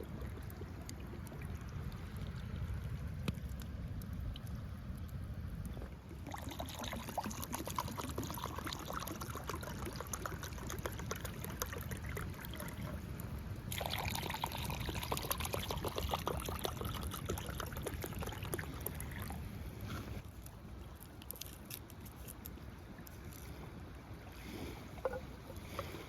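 Water trickling and lapping in a dense patter, over a steady low wind rumble on the microphone; the patter changes abruptly a few times and thins out in the last few seconds.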